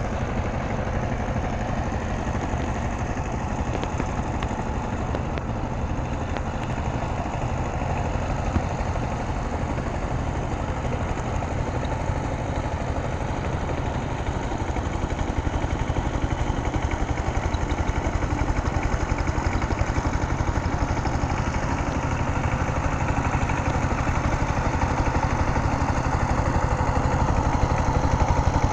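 Power tiller engine running steadily, growing a little louder in the second half.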